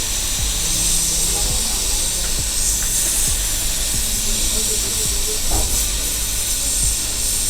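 Hot air rework station blowing a steady hiss while reflowing a BIOS chip onto a motherboard; the hiss cuts off suddenly at the end.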